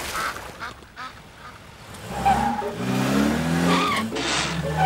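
Cartoon car engine sound effect: after a few short squeaky chirps, the engine revs up loudly about two seconds in, its pitch climbing in steps as the car accelerates.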